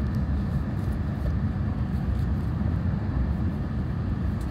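Running noise inside the cabin of an Akita Shinkansen Komachi (E6 series) train on the move: a steady low rumble of wheels on rail and running gear, with a few faint light ticks.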